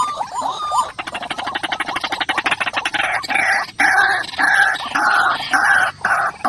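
White-breasted waterhen (ruak-ruak) calling. It opens with a run of quick rising notes, breaks into a fast rattling trill about a second in, and from about three seconds settles into repeated croaking 'ruak' notes, about two a second.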